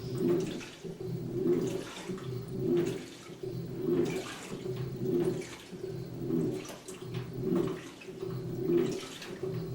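2006 GE Profile top-loading washer agitating its load in rinse water: motor hum and churning water swell and ease in a steady rhythm, about once every 1.2 seconds.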